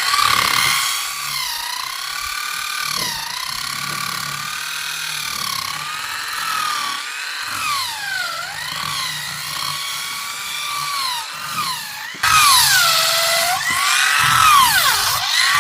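Electric power tool working wood: its motor whine repeatedly sags in pitch as it bites under load, then recovers. It gets suddenly louder about twelve seconds in.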